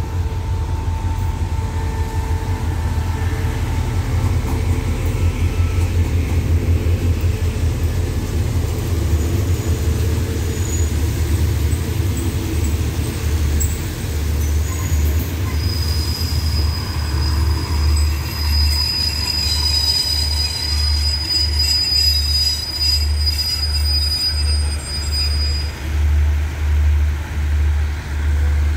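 Express passenger train arriving behind a diesel locomotive: a low engine drone as the locomotive passes, then coaches rolling by with regular thumps of wheels over rail joints that space out as the train slows. From about halfway a high, steady brake squeal holds for around ten seconds as the train brakes to stop.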